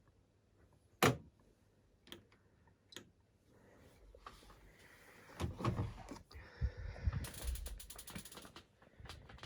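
Clicks and knocks from the washing machine being handled after the spin: three sharp single clicks, then rumbling and knocking with a quick run of ratchet-like mechanical clicks about seven seconds in.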